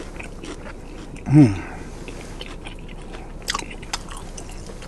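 Close-up chewing of a sauced fried chicken wing, with wet mouth smacks and clicks. About a second and a half in, a short hummed "mmm" of approval, falling in pitch.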